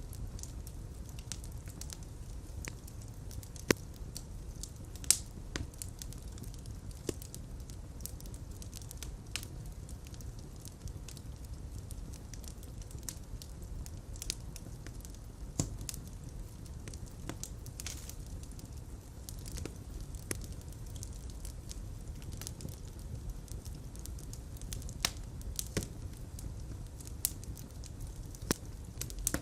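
Fireplace fire crackling, with irregular sharp pops over a steady low rumble of flames; two pops a little over a second apart, early on, stand out as the loudest.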